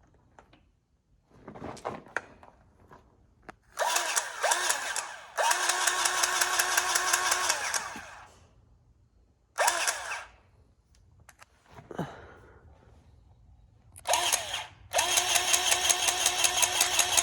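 Battery-powered grease gun run in several trigger bursts, its motor whining with a rapid pumping pulse, the last burst held on and running past the end, as grease is forced into a drive-shaft U-joint fitting.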